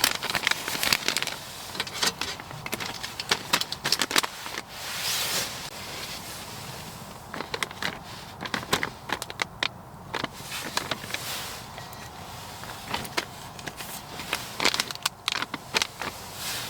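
Irregular clicks, taps and light crackles of handling an MRE pouch and its flameless heater pack, with a brief rushing hiss about five seconds in.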